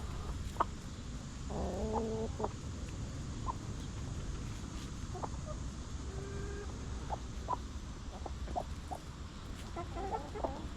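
Hens clucking, with scattered short clucks and a longer call about two seconds in and again near the end, over a steady low background hum.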